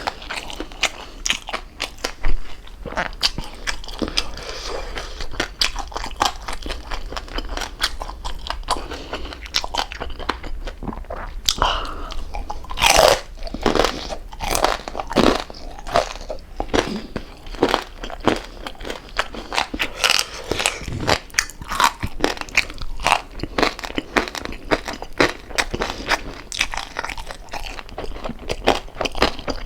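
Close-up chewing and crunching of crispy fried pork jowl, with many crackling bites one after another. The loudest crunches come about halfway through.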